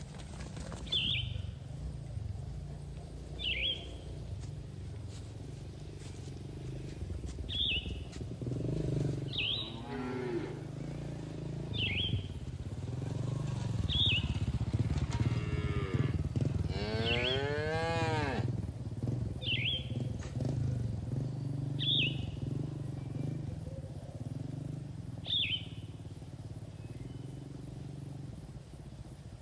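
Cattle mooing: a shorter moo about ten seconds in and a long, drawn-out moo from about fifteen to eighteen seconds. A short high chirp repeats about every two seconds over a steady low rumble.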